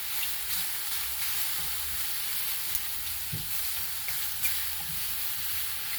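Mushrooms and onions sizzling steadily in hot oil in a frying pan, with a few light clicks of stirring.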